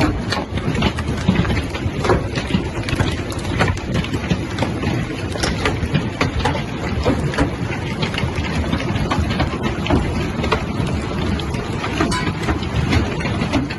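Hailstorm: many hailstones striking in quick, irregular sharp clicks over a steady rushing noise.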